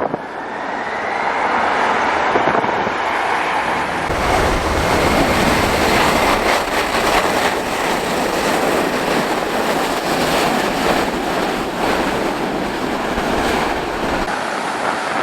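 Loud, steady jet engine noise from a Boeing 747-400 freighter arriving, with a faint whine in the first few seconds. Gusty wind buffets the microphone from about four seconds in.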